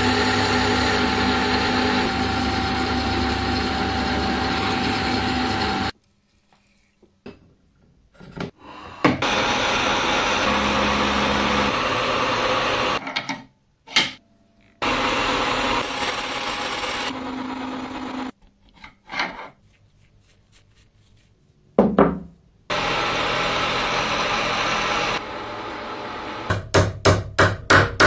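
Workshop tool work in spells: a power tool runs for several seconds at a time with short pauses between runs, then a quick series of sharp taps near the end.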